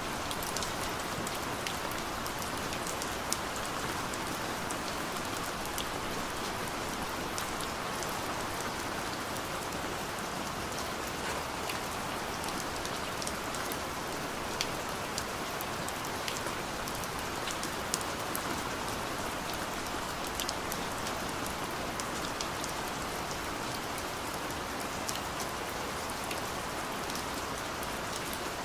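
Steady rain falling on a car, heard from inside the cabin, with many individual drops ticking sharply over an even hiss.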